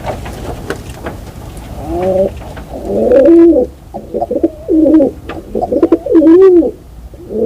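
A bird calling: a run of short, low calls, each rising and falling in pitch, starting about two seconds in over a steady background noise.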